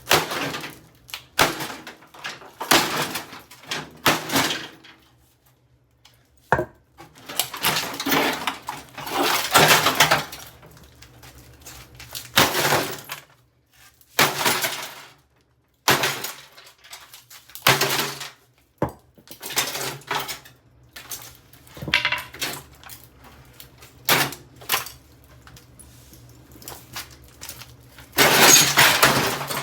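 A Samsung over-the-range microwave being smashed apart: a long run of irregular blows, each with breaking and clattering of its metal, plastic and glass parts, with short pauses between the bursts.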